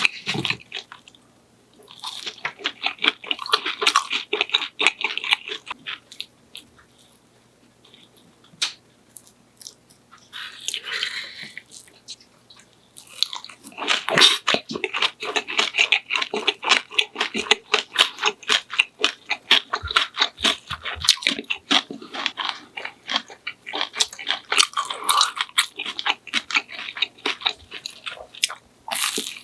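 Close-miked chewing and crunching of food, a dense run of small crisp bites and chews, stopping for a few quiet seconds about a quarter of the way in, then resuming steadily.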